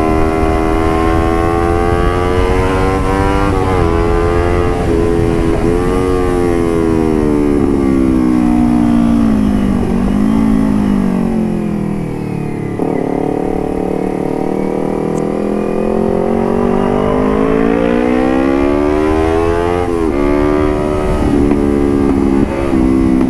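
Motorcycle engine revving through an aftermarket carbon exhaust, its pitch swinging up and down as the throttle is held and eased. It drops to its lowest around the middle, then climbs again near the end.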